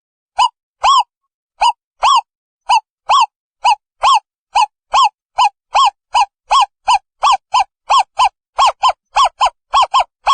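Owl calling: a long series of short hooting notes that starts at about two a second and speeds up to about four a second.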